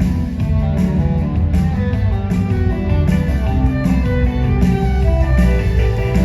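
Live band music with no singing: guitar over a heavy bass and a steady beat.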